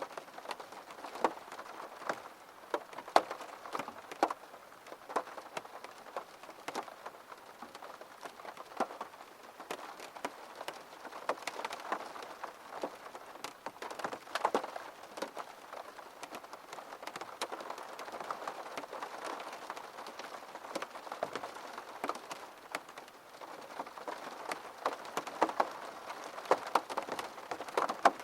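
Gentle, steady rain, with many close raindrops striking a surface in sharp, irregular taps over a soft continuous hiss.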